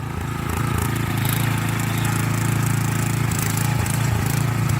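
Single-cylinder 170 petrol engine of a walk-behind tiller running steadily, growing a little louder in the first second.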